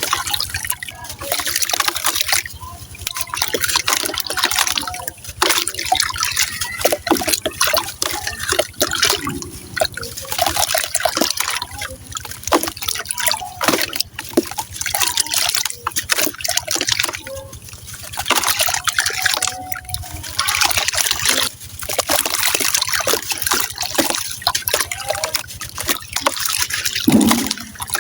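Gritty brown sand cement crumbling into water: crunching and crackling with trickling and dripping, coming in waves of a few seconds.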